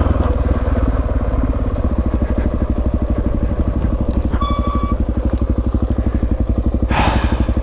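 Single-cylinder dual-sport motorcycle engine putting along at low speed with an even pulse, then shutting off near the end. A short electronic beep sounds about midway.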